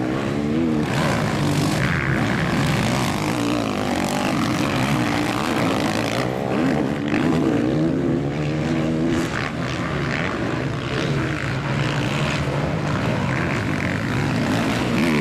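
Motocross bikes racing around the track, their engines revving up and down as they accelerate and shift, with several engine notes overlapping.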